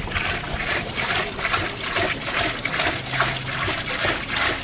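Acid solution trickling steadily, with a dense, irregular crackle running through it.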